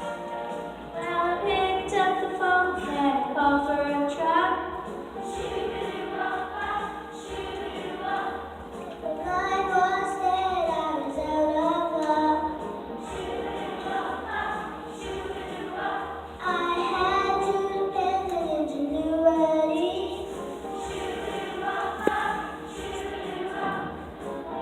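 A choir singing a song in sung phrases, with the melody rising and falling.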